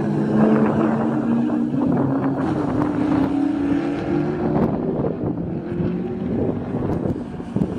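Supercharged Corvette V8 accelerating hard on a race track, its pitch rising steadily as it pulls away. About halfway through the clear engine note fades into a rougher, noisier rush mixed with wind on the microphone.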